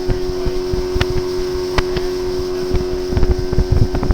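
Fishing boat's motor running at cruising speed across a lake, a steady drone, with wind buffeting the microphone and a few short knocks.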